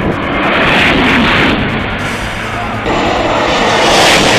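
TGV high-speed record train rushing past at about 570 km/h, heard as two loud swells of rushing noise. The second swell starts abruptly about three seconds in. Background music runs underneath.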